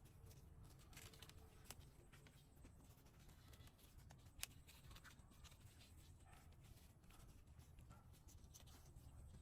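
Near silence: a faint low hum with scattered soft clicks, and one sharper click about four and a half seconds in.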